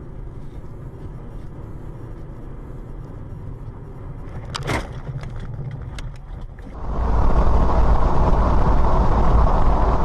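Road vehicle noise: a steady low rumble with one brief sharp sound about halfway through. About seven seconds in, a much louder, steady rushing noise takes over.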